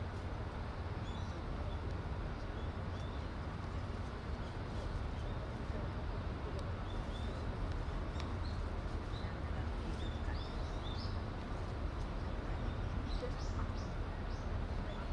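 Small birds chirping in short, high calls, scattered throughout and coming more thickly in the second half, over a steady low background rumble.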